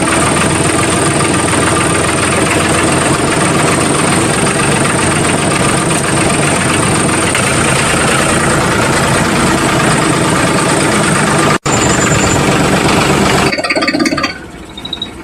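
A small motor running steadily with a thin high whine on top. It cuts out for an instant about two-thirds of the way in, then thins and fades near the end.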